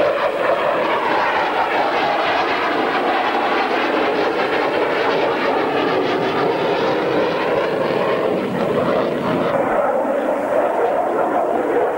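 Jet engine of a Dassault Mirage fighter in flight, loud and steady; its higher hiss drops away about nine and a half seconds in.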